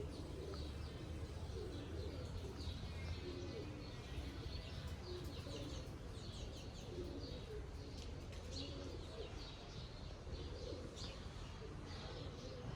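Birds calling: a dove cooing in repeated low phrases while small birds chirp throughout, over a steady low rumble.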